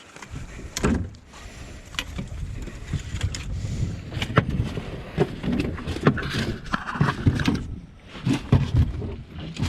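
Irregular knocks, thuds and rustling of handling in a small fishing boat, with several sharp clicks spread through.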